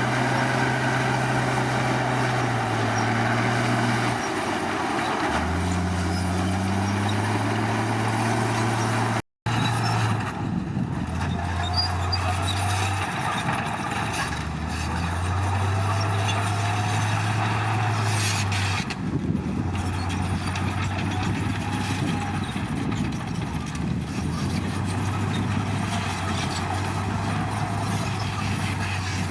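Komatsu D53 bulldozer's diesel engine running, its pitch stepping up and down repeatedly as the load and throttle change while working. The sound cuts out for an instant about nine seconds in.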